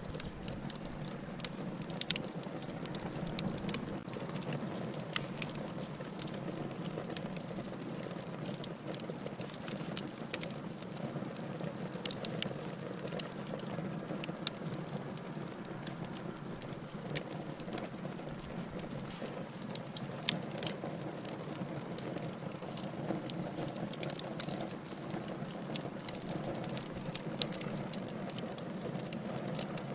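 Wood fire crackling in a fireplace: a steady hiss with frequent small, sharp pops and snaps scattered irregularly, a few louder pops standing out.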